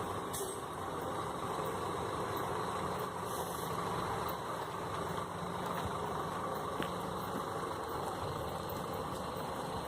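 Scania K 360 coach's diesel engine idling steadily.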